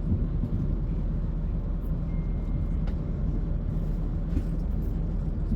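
Class 170 Turbostar diesel multiple unit idling at the platform: a steady low engine hum. A brief faint high tone sounds about two seconds in.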